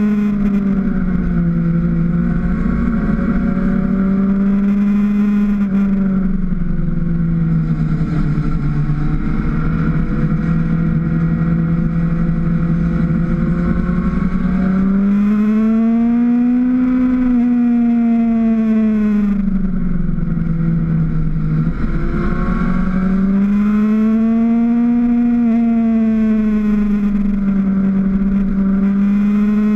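Motorcycle engine heard from the riding bike itself, its revs rising and easing off smoothly as it is ridden through bends, peaking twice, in the middle and near the end. A low wind rumble on the microphone runs underneath.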